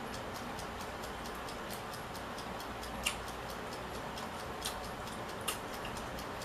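Light clicking of someone eating mussels and pasta: mouth clicks and shells and utensils tapping, over a steady hiss. A few sharper clicks stand out about three, four and a half and five and a half seconds in.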